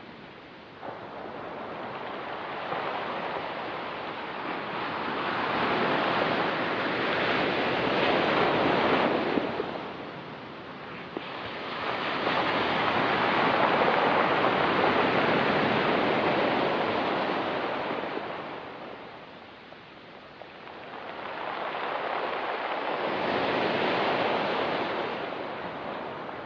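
Ocean waves breaking and washing up a rocky beach, the surf swelling and falling away three times.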